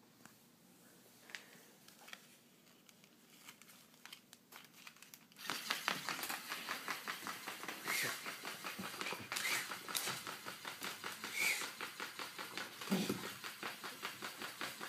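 Toy bird crinkling and rattling rapidly. The rattling starts suddenly about five seconds in, and short high chirps come through a few times.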